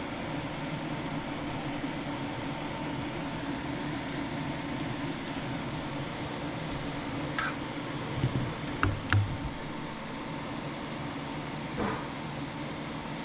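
Steady machine hum and hiss, with a few small clicks and knocks about eight to nine seconds in and again near the end.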